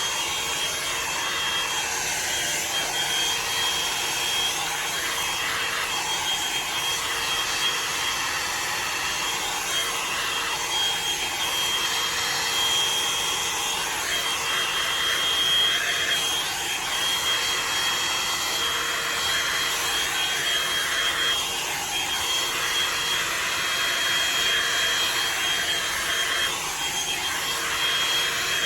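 Drybar Double Shot blow-dryer brush running: a steady rush of blown air with a thin high whine from its motor, the level wavering slightly.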